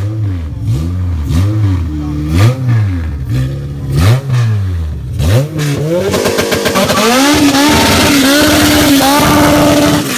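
A car engine revved hard in quick repeated blips, its pitch rising and falling about once a second. About six seconds in it is held near high revs for some four seconds under a loud rushing hiss, then drops away at the end.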